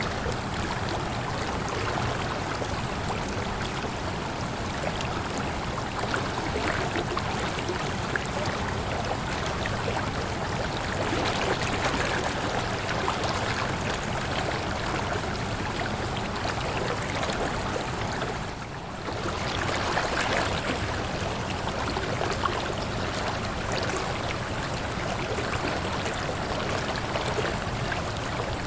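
Waterfall: a steady rush of falling water, with a brief dip in level about two-thirds of the way through.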